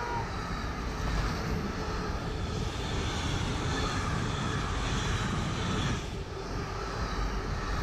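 Intermodal freight train of pocket wagons loaded with lorry trailers rolling past close by: the steady noise of wheels running on the rails, easing slightly about six seconds in.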